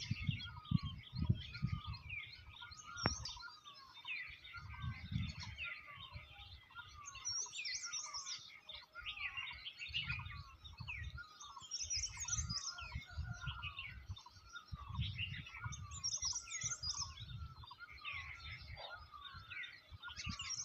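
Many birds singing and chirping at once in a busy chorus of short, quick calls, one of them repeating a short falling note about twice a second, over a deep rumble that swells and fades every few seconds.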